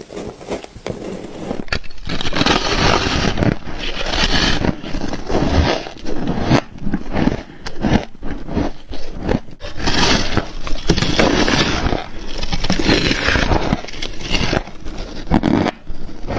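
Frost being bitten and chewed: a continuous run of rough, crackly crunches, several a second, as the packed ice crystals break between the teeth.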